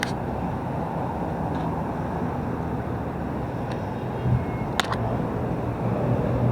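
Steady rumble of heavy road traffic on a busy multi-lane highway, with a few sharp clicks, the clearest about five seconds in.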